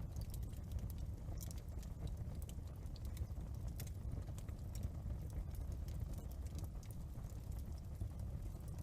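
Wood fire in a fireplace crackling: irregular sharp snaps and pops over a steady low rumble.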